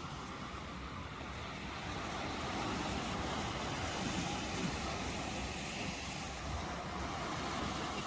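Ocean waves washing on a shore: a continuous surf noise that swells and eases slowly.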